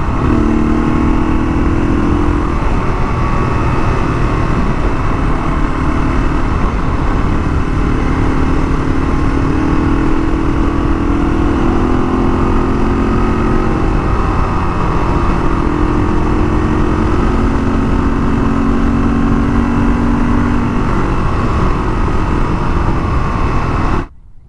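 Single-cylinder four-stroke engine of a 1982 Honda XL500R running steadily at road speed, under heavy wind rush on the microphone. It cuts off abruptly near the end.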